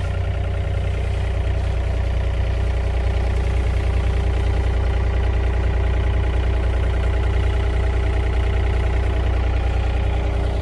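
Heavy construction machine's engine running at a steady speed, with a deep, even hum and a stack of steady tones above it.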